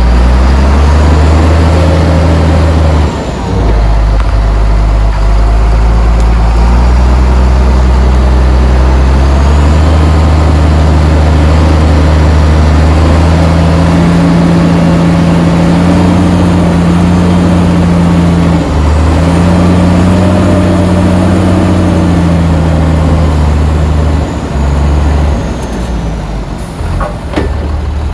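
Heavy diesel engine of earth-moving machinery working under load, its pitch stepping up and down several times as it revs and eases. It drops off briefly about three seconds in and settles lower near the end.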